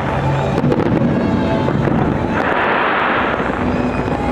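Fireworks going off in a dense display: a continuous crackle and rumble of bursts, swelling into a thick crackling patch about halfway through.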